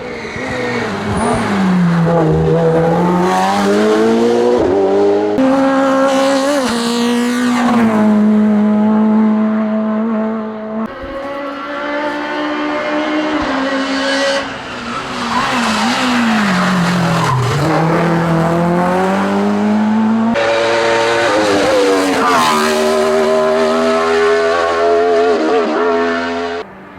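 Racing car engines at full throttle in a series of short passes, the pitch climbing and dropping as the cars accelerate, shift and slow for corners.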